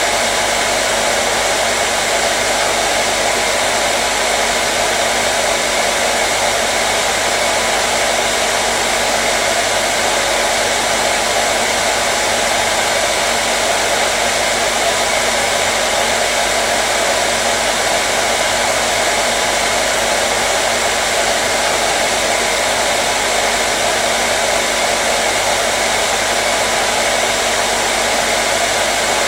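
Hair dryer running continuously at a steady setting: an even blowing whoosh with a faint motor hum under it, unchanging throughout.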